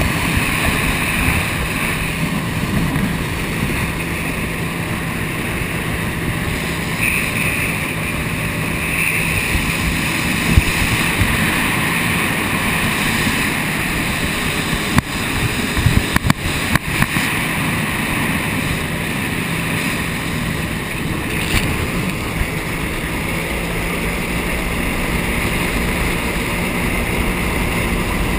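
Jet ski engine running steadily under water rush and wind noise on the microphone, with a cluster of sharp knocks about halfway through.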